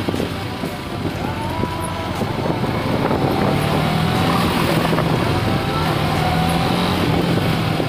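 Motorcycle engine running at low road speed, heard from the rider's own bike, with a steady note that picks up slightly about three seconds in.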